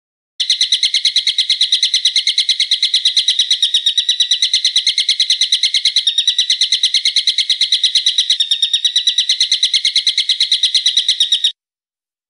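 Songbird giving a long, rapid run of evenly repeated high, shrill notes, several to the second, held steady for about eleven seconds and then stopping abruptly. It is a recorded call used as a masteran, a tutor recording for training caged songbirds.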